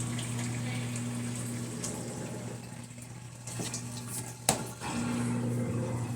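Brastemp BWH15 top-loading washing machine running with water flowing, over a steady electric hum. A single sharp click about four and a half seconds in.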